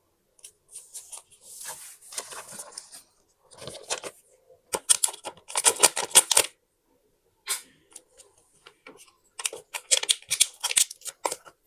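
Scrapbooking paper being handled: a stretch of rustling and sliding, then two runs of quick, sharp crinkles and snips.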